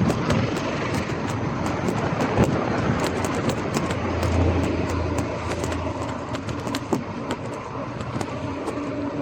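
Scott Scale Gravel 10 bike riding along a street: steady tyre noise with frequent rattling clicks from the bike, and a low engine hum from a vehicle swelling for a couple of seconds around the middle.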